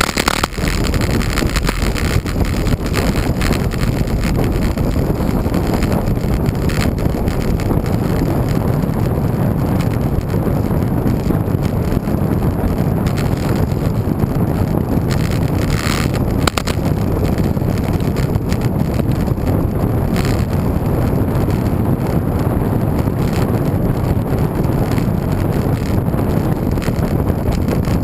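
Steady low rushing of wind buffeting the microphone while riding a road bike.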